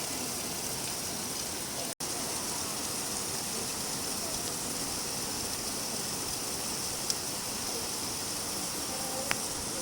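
Steady rain falling, an even hiss, with a faint drip or two near the end. The sound cuts out for an instant about two seconds in.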